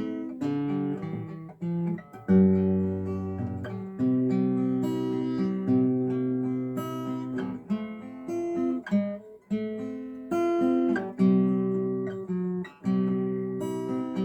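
Acoustic guitar strumming held chords in a slow accompaniment, with short breaks at the chord changes.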